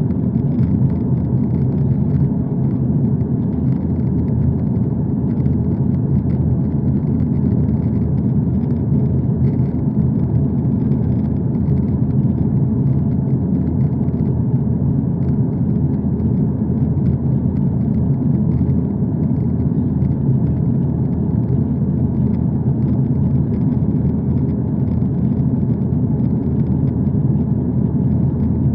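Steady, unbroken low rumble of a vehicle in motion, even in level throughout.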